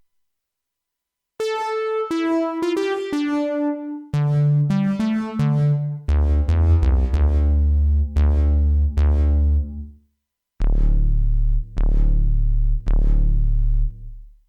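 Jeannie polyphonic DIY synthesizer playing a keyboard-like patch: after a second and a half of silence, a short run of single notes, then lower notes and full chords over a deep bass. Each note starts sharply and fades. The playing breaks off briefly about ten seconds in, then resumes with repeated chords.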